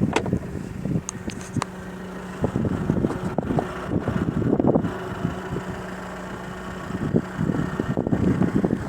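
Chevrolet Niva engine idling with a steady low hum, while wind gusts buffet the microphone. A few sharp clicks come about a second in.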